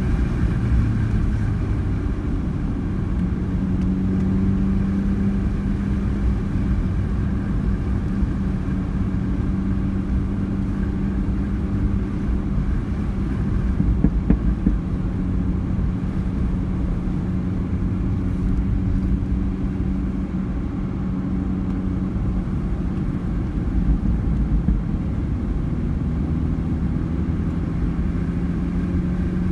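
Mini Cooper engine running steadily at a moderate, unhurried pace, heard from inside the cabin over a heavy rumble of road and tyre noise; the engine note shifts slightly in pitch a few times as the car eases its speed through the corners.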